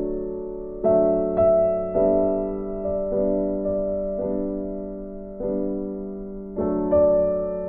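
Background piano music: soft sustained chords struck about once a second, each fading before the next.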